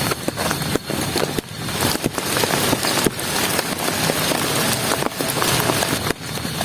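Heavy rain falling steadily, with many separate drops striking close by over a dense hiss.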